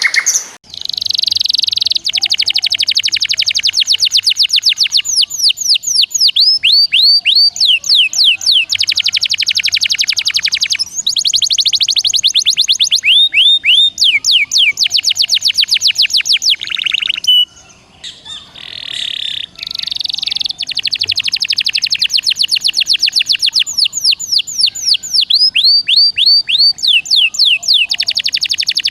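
Songbird song in fast, tightly packed trills: rapid runs of down-slurred whistled notes in repeated phrases, with short breaks between phrases and a brief pause just past the middle.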